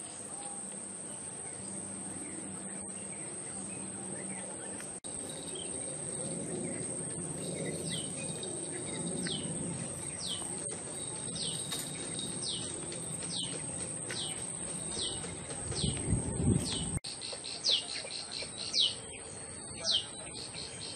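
A bird calling a series of short downward-slurred whistled notes, about one a second, growing louder in the second half. Under it runs a steady high-pitched whine, with a brief low rumble about three-quarters of the way through.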